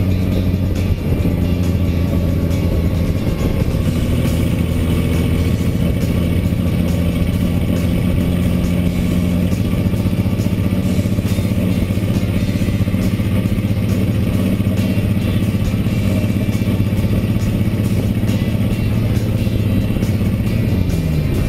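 1927 Mercedes-Benz SSK's supercharged straight-six engine running at a steady cruise, with wind and road noise around the open car. Near the end the engine note drops briefly.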